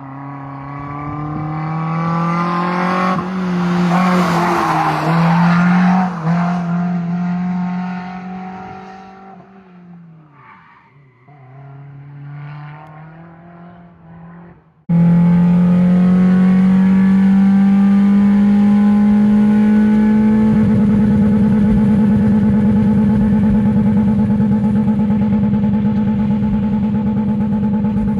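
Mazda Protegé four-cylinder engine and exhaust: the engine note swells to a loud peak with a burst of noise, then dips in pitch and fades away. After a sudden cut about fifteen seconds in, a loud, steady exhaust note holds at near-constant revs, stepping up slightly about twenty seconds in.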